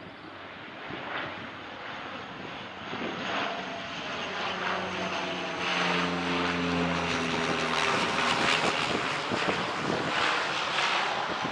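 Small park ride train running, its motor droning under a clatter of rattles and knocks. A steady low tone joins about five seconds in and cuts off abruptly about eight seconds in.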